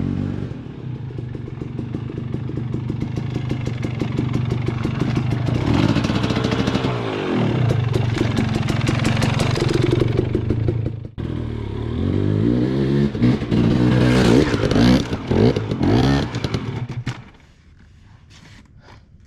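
Dirt bike engine running and revving, its pitch rising and falling, with some clatter from the bike. The engine sound stops about 17 seconds in, leaving only faint clicks.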